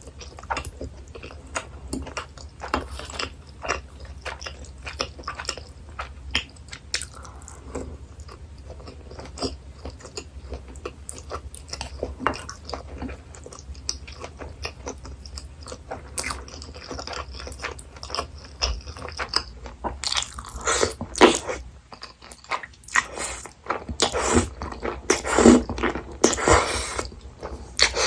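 Close-miked eating: chewing and biting with many small wet clicks and smacks, growing louder and denser in the last several seconds.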